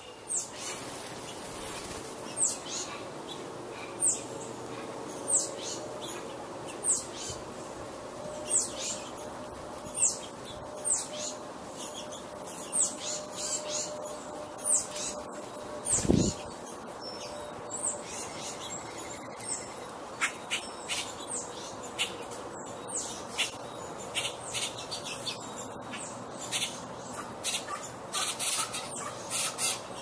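Small songbird repeating a sharp, high, down-slurred chirp about every second and a half; about halfway through it gives way to quicker, denser chips and clicks.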